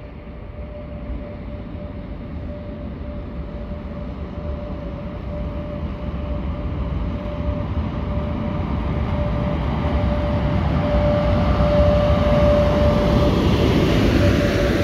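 VR Sr1 electric locomotive hauling a long passenger train as it approaches, its sound growing steadily louder until it passes close near the end. A steady whining tone runs through it.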